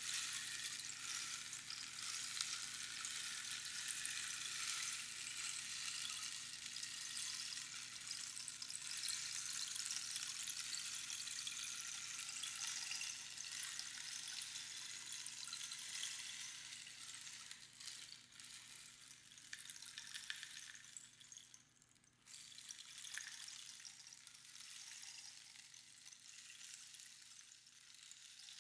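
Rainstick being tipped, its pebbles trickling down past the pins inside the hollow cactus tube in a continuous rain-like rush. The flow thins out in the second half, almost stops about two-thirds of the way through, then picks up again and fades near the end.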